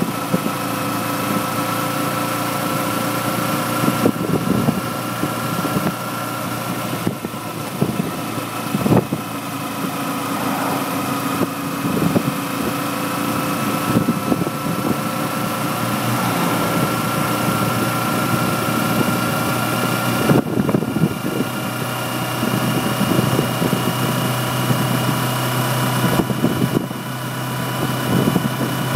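Kawasaki Ninja 250R's parallel-twin engine running steadily at riding speed, mixed with wind rush over the bike, with a couple of brief dips in the engine note in the last third.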